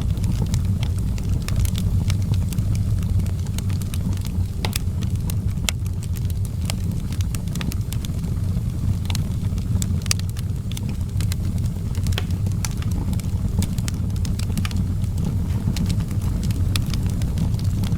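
Outdoor wood fire burning with a steady low rumble and scattered sharp crackles and pops.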